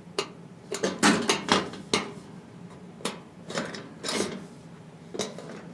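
Sheet-metal panels of an IKEA Helmer steel cabinet clinking and scraping as a screwdriver levers their tabs into the slots: a string of short metallic knocks and rubs, irregularly spaced.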